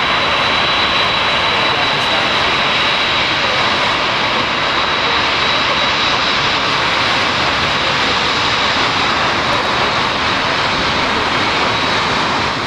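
Jet airliner engines running loud and close, a steady rushing roar with a thin high fan whine held on one pitch, easing off slightly near the end.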